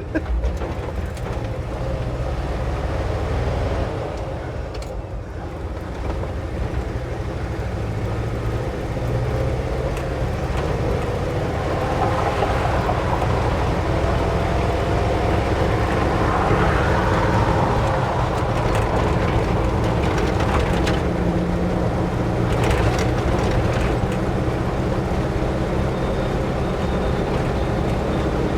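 Ford F600 medium-duty truck driving, heard from inside the cab: a steady engine and road drone, with a tone that climbs in pitch from about five seconds in to the middle as the truck gathers speed.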